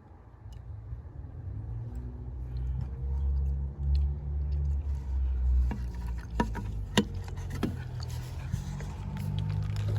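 Car engine running at idle, a steady low rumble, with a few sharp clicks and knocks between about six and eight seconds in.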